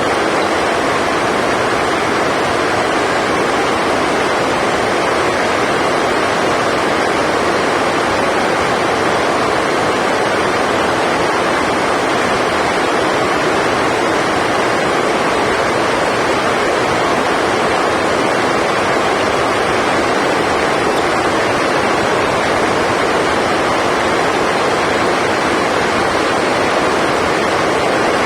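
Heavy rain falling on the hall's roof: a loud, steady rushing noise that does not let up.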